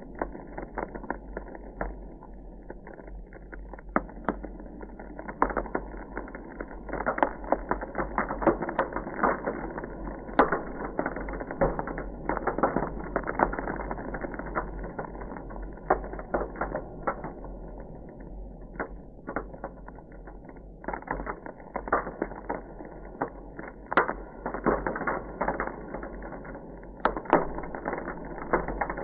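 Ice crackling: a dense, irregular run of small cracks and ticks, with sharper, louder snaps scattered through it, over a steady low hum.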